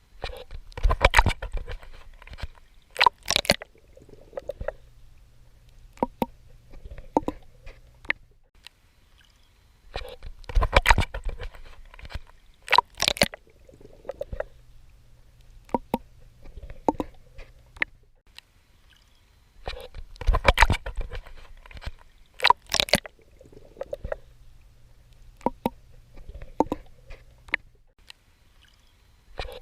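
Water splashing and sloshing around a swimmer, in clusters of sharp splashes with quieter drips and sloshes between and a low hum underneath. The same pattern repeats about every ten seconds, like a loop.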